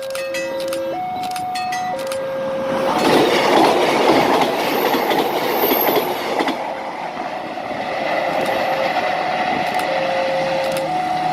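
A passenger train passing, its loud rush of wheel and running noise swelling about three seconds in and easing off after six seconds. Under it, an electronic warning tone alternates between two notes, high and low.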